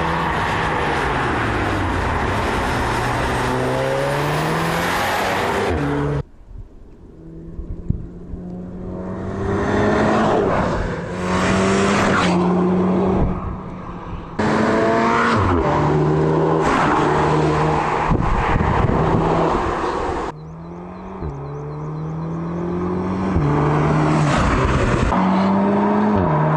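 2019 Audi TTS's turbocharged 2.0-litre four-cylinder accelerating hard, its pitch climbing and then dropping back with each upshift of the 7-speed S tronic gearbox. The sound cuts off suddenly twice and builds back up as the car approaches again.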